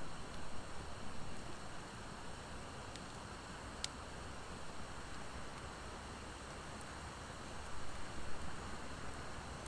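Driftwood and hardwood fire burning steadily with a soft hiss, a few faint crackles, and one sharp pop about four seconds in.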